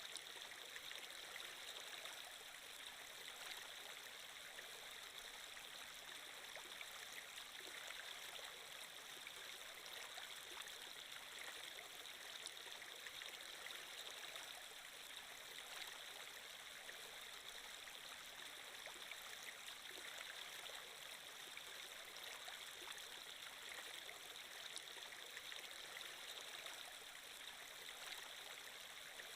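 Flowing-water ambience of a stream, running evenly and unbroken as a soft, hissing rush.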